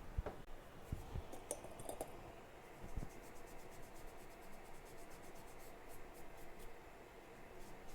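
Small hand tools clicking and scraping on a workbench while chip pads are cleaned on a phone logic board: a few separate taps in the first three seconds, then a quick run of faint even ticks.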